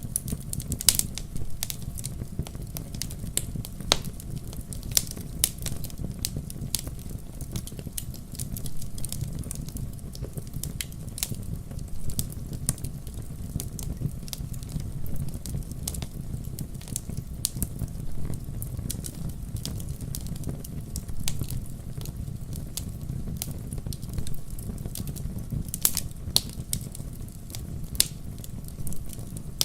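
Wood fire burning in a fireplace: a steady low rumble of flames with irregular crackles and sharper pops, a few louder ones scattered through.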